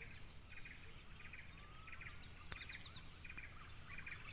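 Faint outdoor wildlife sound: short, rapid chirping trills that repeat about twice a second over a steady high insect drone. There are a couple of faint clicks about two and a half seconds in.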